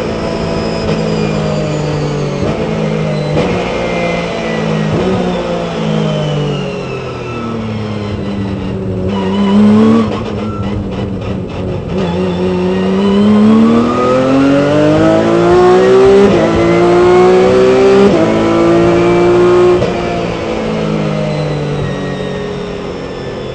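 Porsche 997 Cup car's flat-six engine heard onboard, pulling hard through the gears with the pitch dropping at each upshift. About eight to twelve seconds in the revs fall and the sound thins out as it brakes and changes down, then the engine rises steadily back up through the gears.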